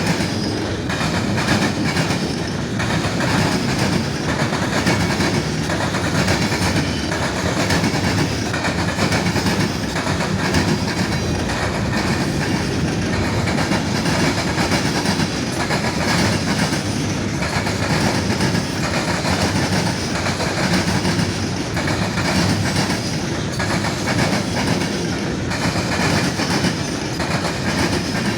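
Norfolk Southern mixed freight train's cars rolling past, steel wheels clicking and clattering over the rail joints in a steady, unbroken stream.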